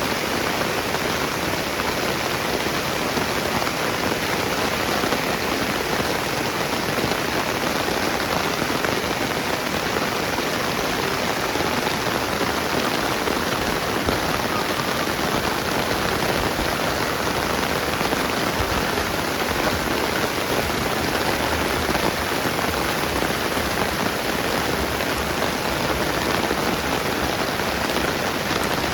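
Steady rainfall: a dense, even hiss of rain that holds level without a break.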